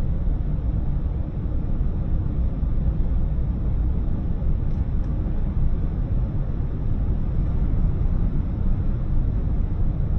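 Steady low road rumble of a car driving on a highway, with tyre and engine noise holding even throughout.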